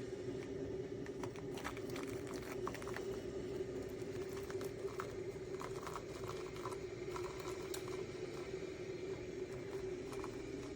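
Technivorm Moccamaster drip coffee maker brewing: a steady hum with scattered faint ticks and pops.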